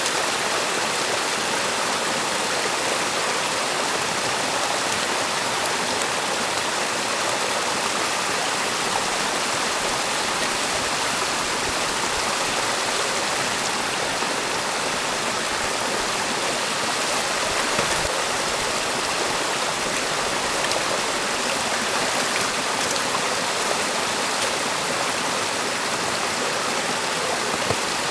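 Stream water rushing steadily past a beaver dam being cleared, an even, unbroken splashing flow.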